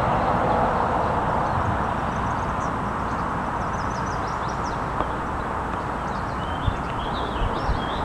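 Small birds chirping and trilling in short high bursts, about a third of the way in and again near the end, over a steady rushing noise with an uneven low rumble.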